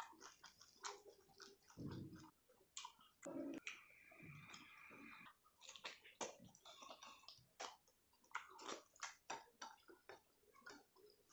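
Close-miked eating by hand: wet chewing, lip smacks and many short mouth clicks as soft rice, curry and boiled cabbage leaf are eaten. A steady hiss lasts about a second, around four seconds in.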